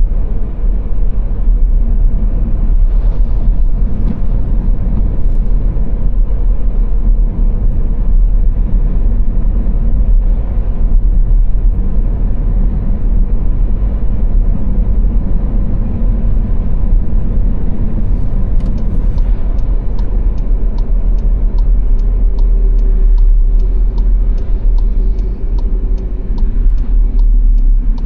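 Car driving at speed on a motorway, its engine and tyre noise a steady low rumble. From about two-thirds of the way in, a regular ticking, about two a second, runs on top.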